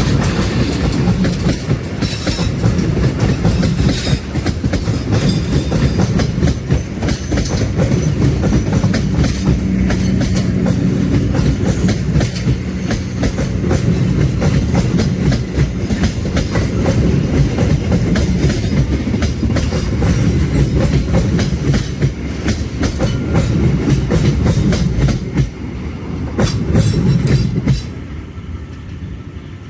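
A train passing close by, its wheels clattering steadily over the rails. The sound drops away sharply near the end as the train clears.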